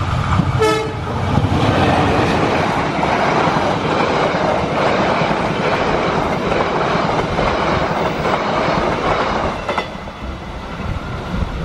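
Diesel-hauled passenger train passing close by: the locomotive goes by first, then a long, steady rush and clatter of carriage wheels on the rails. The sound drops away about ten seconds in as the last coach passes and recedes.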